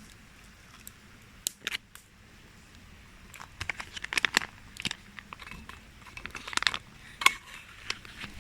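Crinkling and crackling of packaging being handled, in several short clusters of sharp crackles, the busiest a few seconds in and again near the end.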